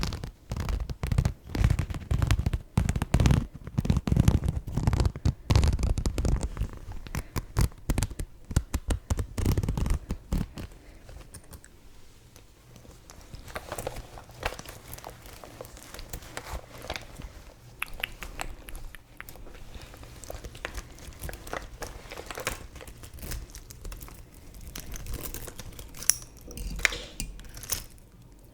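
Close-miked ASMR handling of makeup items and their packaging: crinkling, tapping and scratching. The sounds come thick and loud for about the first ten seconds, then turn softer and sparser.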